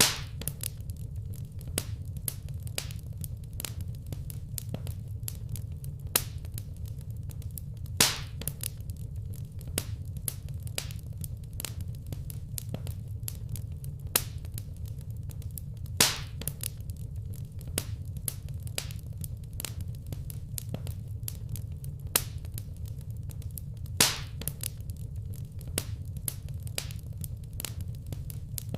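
Wood fire crackling in a brick fireplace: a steady stream of small snaps and pops over a low steady rumble, with a louder pop about every eight seconds.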